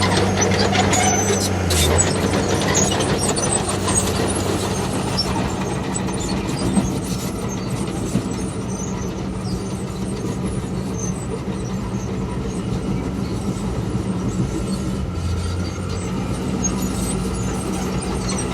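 Heavy diesel earthmoving machinery running steadily, with a low engine hum under a noisy rumble. Two sharp clanks come in the middle.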